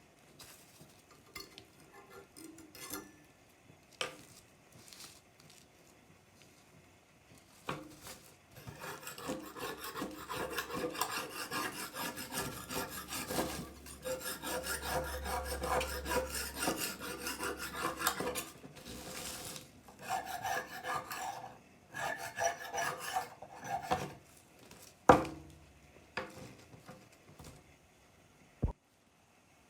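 Rasping, scraping strokes on the rusty machete's steel blade as it is abraded, thick and rhythmic through the middle, with scattered small clicks before and one sharp knock near the end.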